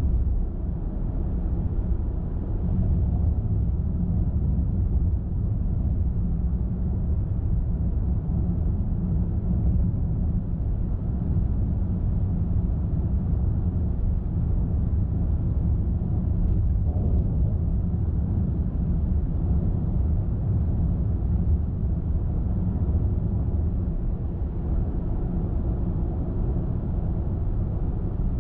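Car driving at steady speed: a steady, low rumble of tyres on the road and engine.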